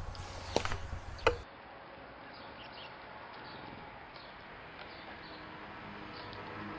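Two sharp clicks, then faint ambience with scattered, faint chirps of small birds; soft music begins to come in near the end.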